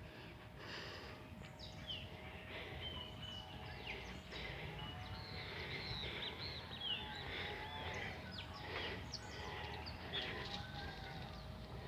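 Several small birds chirping and calling, many short quick high notes overlapping, over a low steady background noise.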